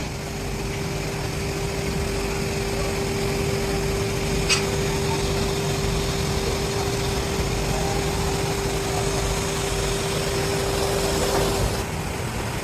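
Workshop machinery running with a steady, dense rumble and a constant mid-pitched hum that drops out near the end, with one short click about four and a half seconds in.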